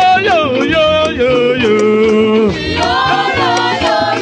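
Live gospel music: a choir singing with a band, with regular drum hits keeping the beat.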